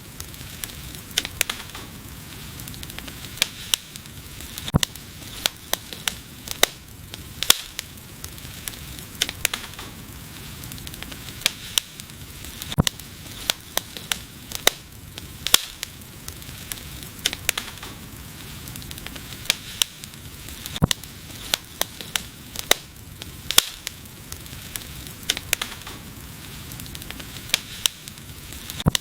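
Wood fire burning with a steady low hiss and frequent sharp, irregular crackles and pops.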